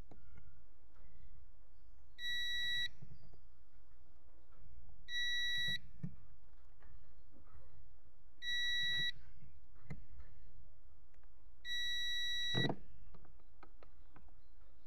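Digital multimeter's continuity buzzer beeping four times, each a steady high tone of about half a second to a second, as the probes touch across fuses: each beep means the fuse conducts and is intact. Light clicks of the probes come between the beeps, and a knock comes at the end of the last beep.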